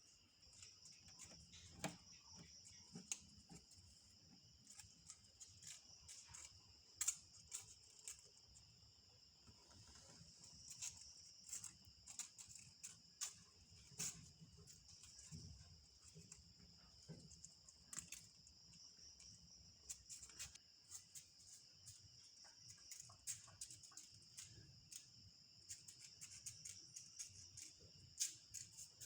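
Faint, steady high trill of crickets, with scattered light clicks and taps throughout.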